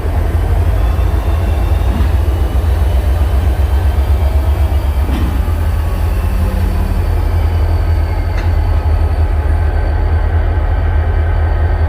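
Freight train cars rolling past with a steady, loud low rumble, with faint high wheel-squeal tones above it.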